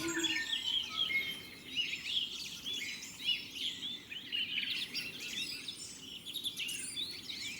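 A chorus of many birds calling at once: dense overlapping chirps and quick whistles that slide up and down in pitch.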